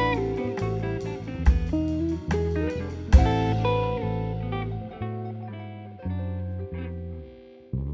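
Instrumental band playing: plucked guitar chords over bass, with drum and cymbal hits. The drums drop out about three seconds in, leaving guitar and bass notes that ring and fade.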